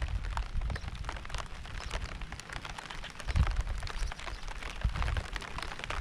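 Steady rain falling, with many separate drops striking close by. Low rumbles swell and fade underneath, the strongest about three and a half seconds in.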